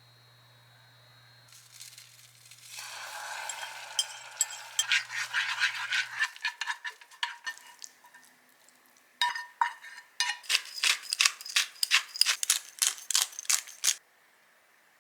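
Kitchen cooking sounds: a utensil clinking and scraping quickly against a bowl or pan in two runs, the second a rapid string of sharp clinks. A hiss rises under the first run.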